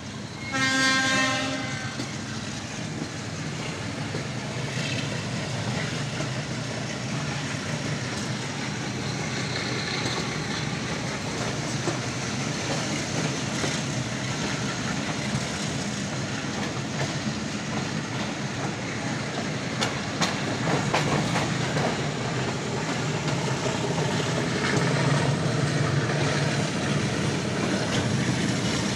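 A train horn sounds once for about a second near the start, then the steady running noise of the train's wheels on the rails, heard from aboard the moving train.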